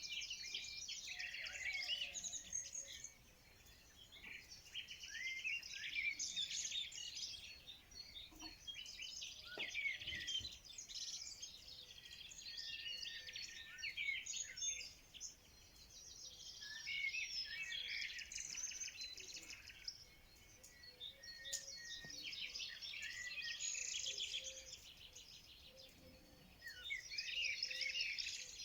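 Several songbirds singing and chirping at once, overlapping quick high chirps and trills that come in bouts with brief lulls between them.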